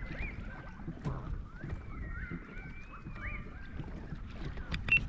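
Low rumble of wind and water around a kayak, with faint, high, gliding whistles of birds calling and a couple of sharp clicks near the end.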